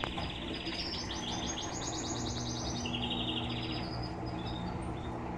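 A small bird singing rapid trills of quickly repeated notes, one phrase going higher and the next lower, until about four seconds in. Under it runs the low steady hum of the Electrolux LTE12 washing machine's pump draining the wash water.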